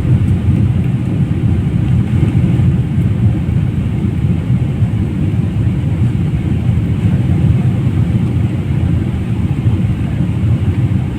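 Steady low rumble of an airliner's cabin noise in flight, even and unbroken.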